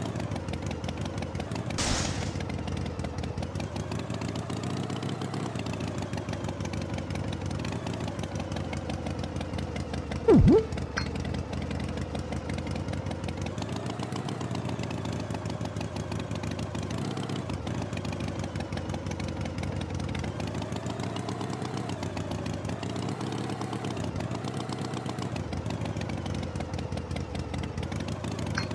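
Tractor engine running steadily, its pitch swaying slowly up and down. A short hiss comes about two seconds in, and a brief loud sound that drops in pitch comes about ten seconds in.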